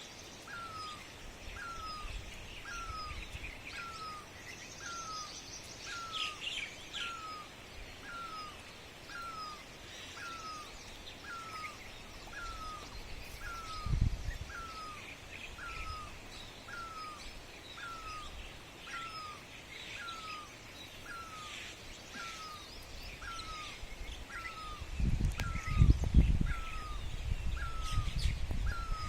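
Birds chirping at dawn, one bird repeating a short hooked call about once a second while others chirp higher and irregularly. Low rumbles come in briefly midway and again near the end.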